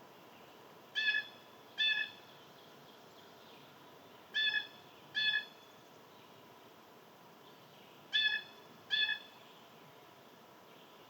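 A bird calling: three pairs of short, even-pitched calls a few seconds apart.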